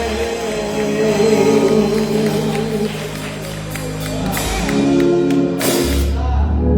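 Gospel music with singing during a church service, with sustained notes over a deep bass line; the bass drops out just after the start and comes back near the end.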